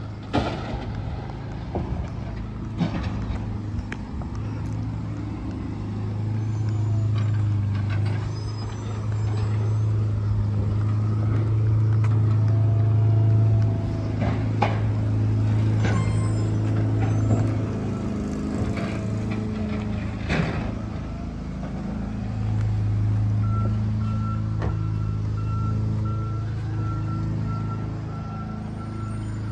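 Garbage truck engine running and revving up and down, with a few sharp bangs. Near the end the truck's backup beeper starts beeping steadily.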